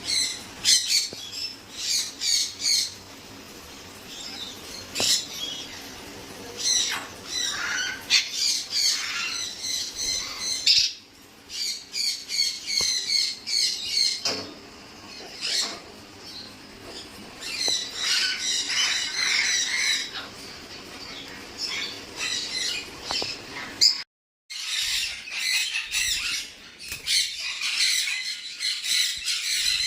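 A flock of caged parrots squawking and chirping, many birds calling at once in rapid, shrill bursts, with a short break about two thirds of the way through.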